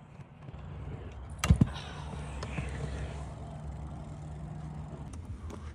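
Skateboard wheels rolling on pavement with a steady low rumble. A sharp double clack of the board about one and a half seconds in, then the rolling carries on and fades about five seconds in.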